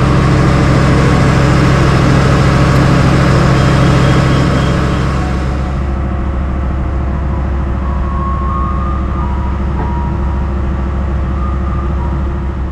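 Diesel passenger train running, with a strong steady low hum. About five seconds in the sound turns duller and a little quieter as the train moves off, heard from inside the carriage.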